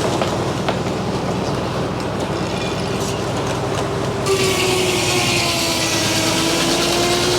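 Frick sawmill running, its circular saw blade sawing a poplar log. It is a steady mechanical running sound. About four seconds in, a louder hiss sets in along with a tone that slowly drops in pitch.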